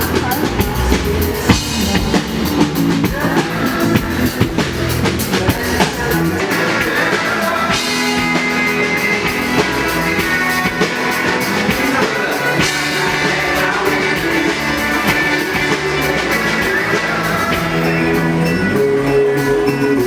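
Rock music with a drum kit, guitar and singing, playing steadily.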